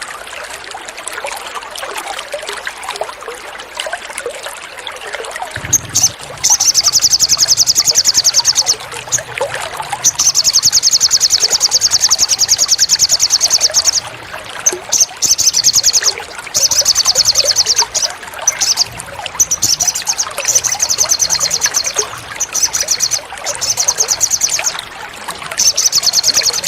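Water trickling, then from about six seconds in a songbird's very fast, high trill. The trill comes in long phrases with short breaks, over the running water.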